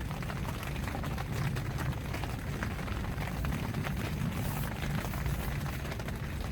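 Rain falling on a tent: scattered drops tick against the fabric over a low, steady rumble.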